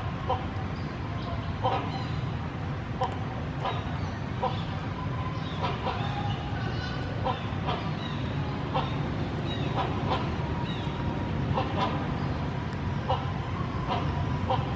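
Short animal calls repeating about once a second, each brief and pitched, over a steady low background noise.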